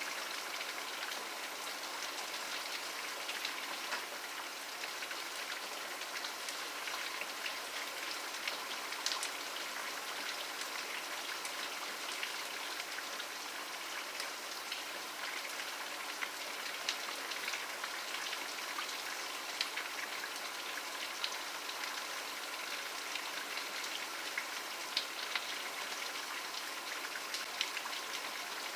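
Steady rain falling, an even hiss with individual drops pattering and ticking throughout.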